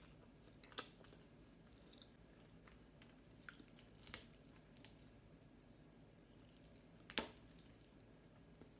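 Quiet eating sounds: a person chewing a mouthful of rice and chicken, with a few scattered sharp clicks, the loudest about seven seconds in, over faint room hiss.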